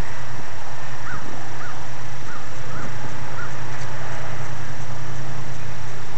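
A crow cawing five times in quick succession, starting about a second in, over a steady background noise with a low hum.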